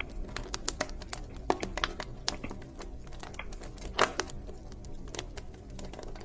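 Wood fire in a fireplace crackling: irregular sharp snaps and pops, several a second, over a low steady rumble. The loudest pop comes about four seconds in.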